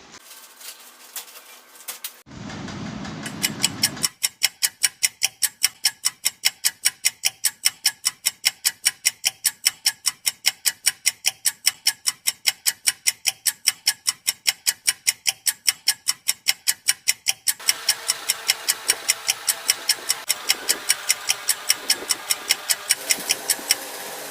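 Steady mechanical ticking: sharp, evenly spaced clicks at about three to four a second, starting about four seconds in. Around two-thirds of the way through, a steady hiss sets in underneath the ticks.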